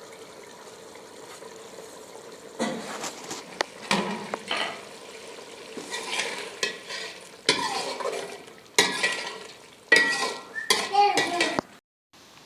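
A metal spoon stirring and scraping in a cooking pot of frying food, in uneven strokes starting about two and a half seconds in, over a low sizzle. It cuts off abruptly near the end.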